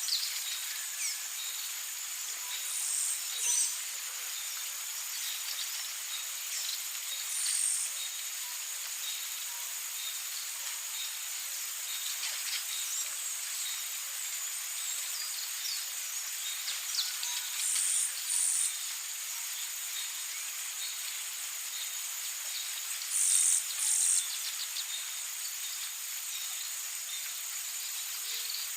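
Tropical rainforest ambience: a steady high-pitched insect drone, with scattered bird chirps. Brief louder high calls recur every few seconds, often in pairs.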